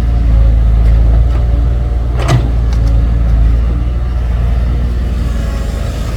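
Excavator engine running steadily, with one sharp knock a little over two seconds in.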